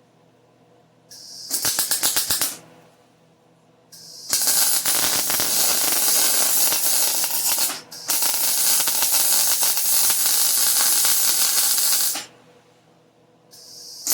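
Arc welding on steel tubing: a short crackling bead, then two long runs of steady arc crackle with a brief break between them, and another start near the end. A short hiss comes just before each start.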